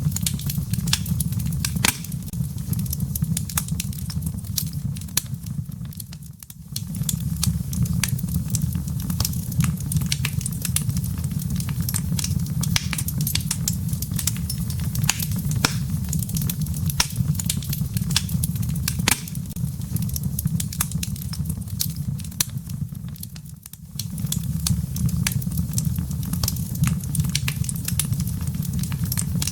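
Firewood burning in a fireplace, crackling and popping with many sharp snaps over a steady low rumble. The sound dips briefly twice, about six seconds in and near the end.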